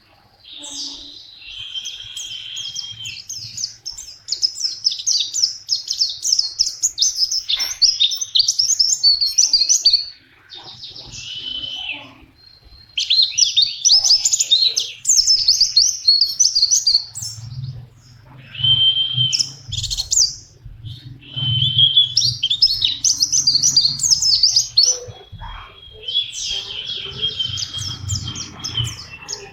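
White-eye (pleci) singing in long, fast twittering runs of high notes. The phrases are broken by short pauses of a second or two.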